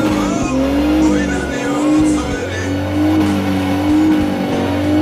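Off-road vehicle engine revving high under load, its pitch wavering up and down, with music playing underneath.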